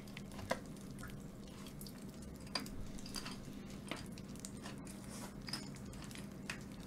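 Quiet close-miked chewing of boneless fried chicken sprinkled with popping candy, with scattered faint clicks and crackles. A faint steady hum lies underneath.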